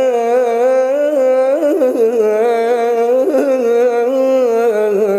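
A male munshid chanting one long unaccompanied melismatic phrase, the voice held on a drawn-out vowel with wavering, ornamented turns, in Iraqi inshad style.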